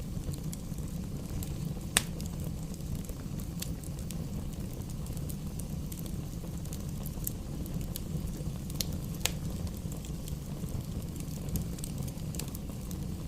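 Fire burning in a fireplace: a steady low rumble of the flames with scattered sharp crackles and pops, the loudest about two seconds in.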